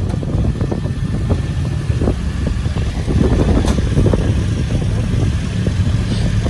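A car engine running at a steady idle with a deep, loud rumble, a little louder about halfway through.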